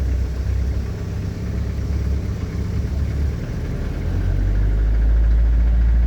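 Truck engine running in first gear under acceleration, getting louder and steadier about four seconds in.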